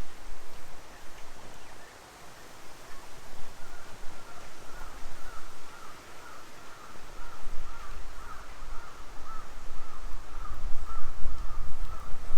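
A bird calling in a steady run of repeated notes from about three seconds in, over a low rumble of wind on the microphone that grows toward the end.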